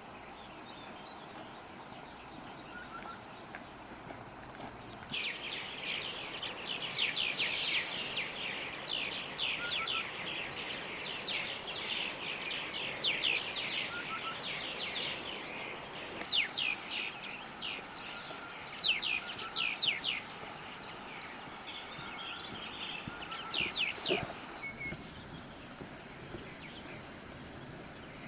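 Songbirds singing in bursts of rapid, high, falling notes over a steady high-pitched insect whine.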